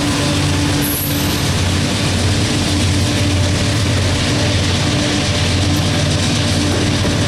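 Freight train passing close by. The trailing CSX Dash 8 (C40-8W) diesel locomotive's engine hum fades over the first few seconds, giving way to the steady heavy rumble and clatter of double-stack container well cars rolling past on the rails.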